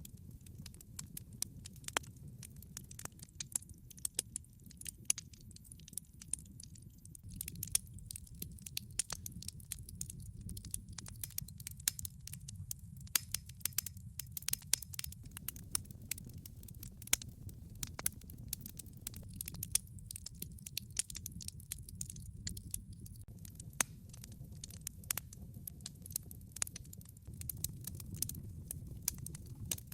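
Wood log fire crackling: many irregular sharp pops and snaps over a low, steady rumble of the burning fire.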